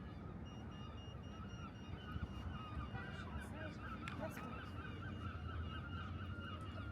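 A flock of geese honking continuously, many calls overlapping. A high electronic beeping repeats over it.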